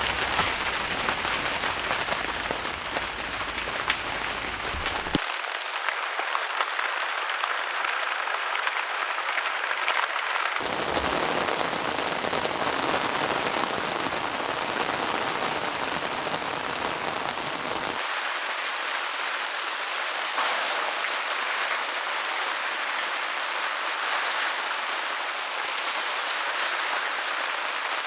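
Heavy rain falling steadily in a dense, even hiss. A low rumble under it drops away and comes back a few times.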